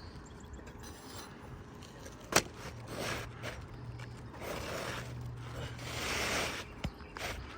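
Hand work on an asphalt shingle roof: one sharp tap of a tool, then asphalt shingles scraping and rustling as they are lifted and worked loose for a repair. A faint low hum runs beneath the scraping.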